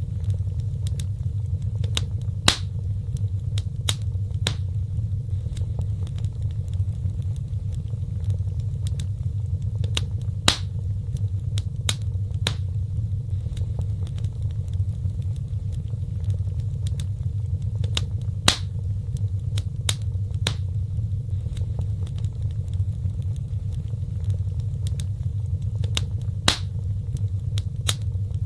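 Wood fire burning in a fireplace: a steady low roar with sharp crackles and pops scattered through, a few of them louder.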